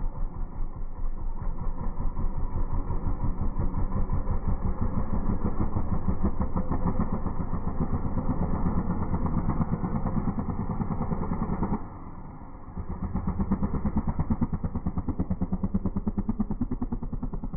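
Dirt bike engine running with a fast, even pulsing beat. It drops away for about a second near the middle, then picks up again.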